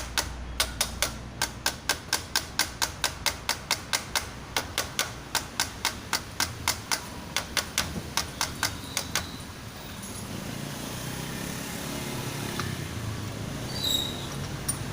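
A rapid, evenly spaced run of sharp clicks, about four or five a second, made during engine-block assembly work. The clicks stop about nine seconds in, leaving a low steady hum.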